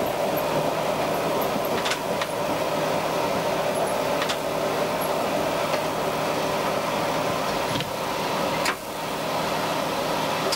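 Diesel railcar running steadily along the track, heard from inside the driver's cab: a continuous drone of engine and wheels, with a few sharp clicks from the rails spaced a second or two apart.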